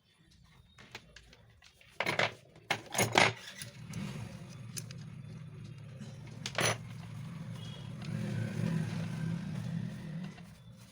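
Metal parts of a mixer grinder motor clinking and knocking as they are handled, several sharp clicks close together, then a steady low hum that swells for a couple of seconds near the end.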